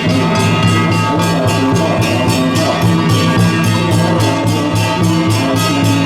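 Loud Taiwanese temple-procession music: drums and cymbals beating a fast, steady rhythm, with held tones sounding over the beat.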